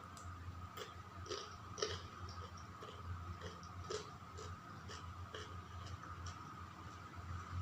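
Close-up eating: chewing and mouth clicks, about a dozen irregular soft smacks, over a faint steady hum.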